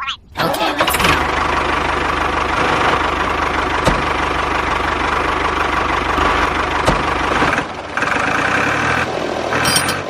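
A small motor running steadily, starting just after the opening. It drops out briefly near the end, then picks up again.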